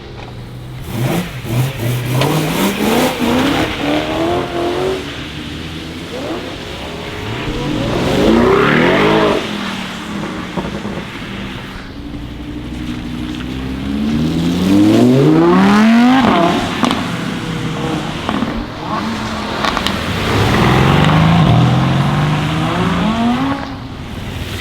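Performance cars accelerating hard away one after another on a wet road, about four times. Each engine revs up steeply through the gears and drops off as it passes, over a steady hiss of tyre spray.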